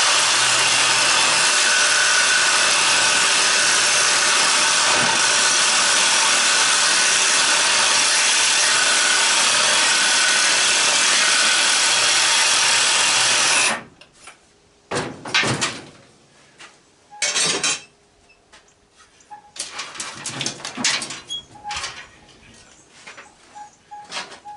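A power tool runs steadily at full speed for about fourteen seconds, cutting copper tubing off an AC condenser unit, then stops suddenly. A few scattered knocks and clanks of metal being handled follow.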